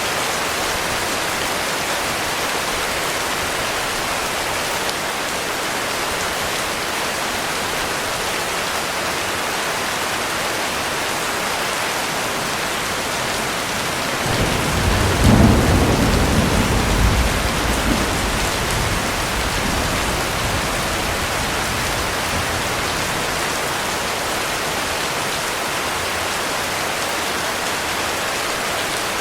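Heavy rain falling steadily, a dense even hiss. About halfway through, a roll of thunder rumbles low, swells for a couple of seconds and dies away over several more.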